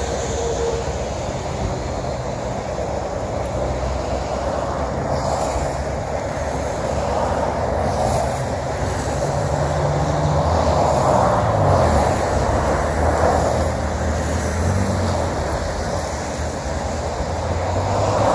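Steady road traffic noise with several vehicles passing; about ten seconds in, one engine's pitch falls as it goes by.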